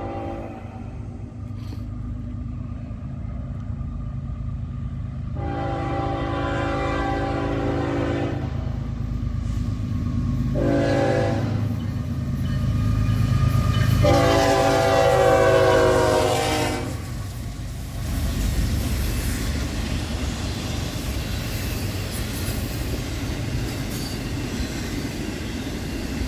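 Approaching diesel freight locomotive sounding its multi-note air horn for a grade crossing: a long blast, a short one, then a final long, loudest blast, ending the long-long-short-long crossing signal over a growing engine rumble. Then the train passes with a steady rumble of rolling cars.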